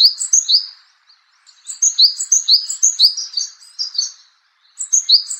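Japanese tit singing: bouts of repeated two-note phrases, a high whistle dropping to a lower one, four or five phrases to a bout with short pauses between. This song is rendered in Japanese as 'tochi, kane, hoshii yo'.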